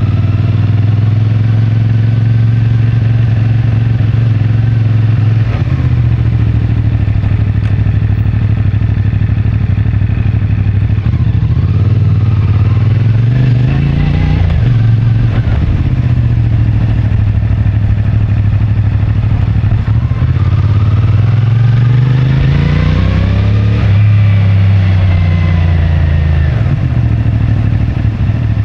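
CFMoto 450MT's parallel-twin engine running on its stock exhaust under way, its pitch climbing and dropping twice: about halfway through and again near the end, as the bike speeds up and slows.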